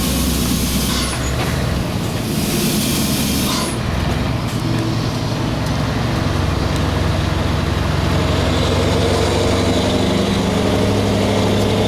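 Scania 4-series truck's V8 diesel engine running steadily. Two loud blasts of compressed air hiss over it near the start, the second lasting about a second and a half, typical of the air brakes venting.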